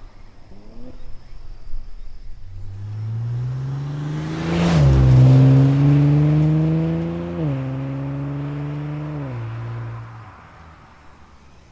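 Nissan Fairlady Z NISMO's twin-turbo V6 exhaust through an HKS Super Turbo Muffler, accelerating hard with rising pitch and dropping in pitch three times as it shifts up. It is loudest a little before halfway, then fades away near the end.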